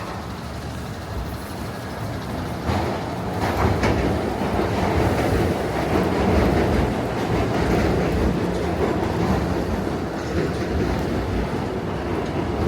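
A passing train rumbling, with a few clacks as it swells louder about three seconds in, then staying loud.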